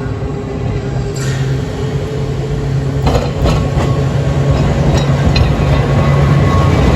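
Manx Electric Railway tram car running along the line, heard from on board: a steady low hum with rumbling wheel noise and a few sharp clicks and knocks from the wheels and car about three and five seconds in.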